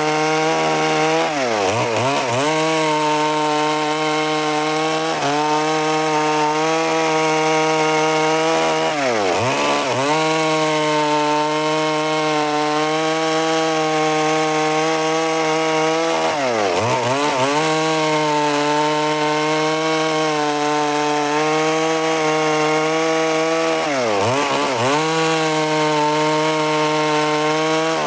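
Stihl MS 382 two-stroke chainsaw running at high revs while cutting lengthwise through timber. Its engine note drops sharply and climbs back four times, about every seven seconds.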